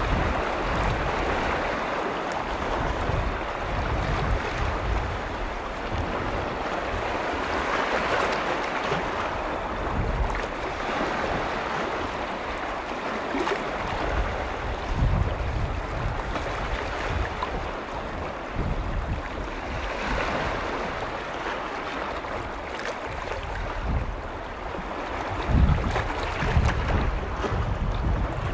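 Freshwater lake waves washing in, the wash swelling every few seconds. Gusts of wind buffet the microphone with low rumbles, strongest near the end.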